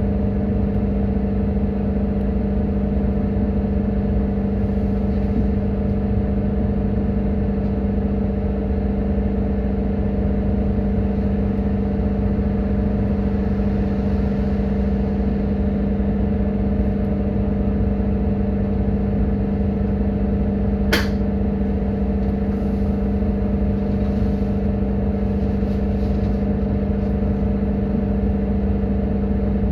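Doosan GX12P compressed-natural-gas engine of an Edison Motors Smart 110G city bus running steadily, heard inside the bus as a constant low rumble with a steady hum. A single sharp click sounds about two-thirds of the way through.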